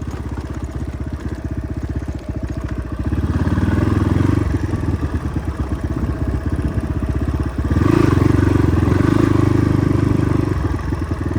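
Motorcycle engine running with a steady low firing beat, picking up and getting louder about three and a half seconds in and again about eight seconds in.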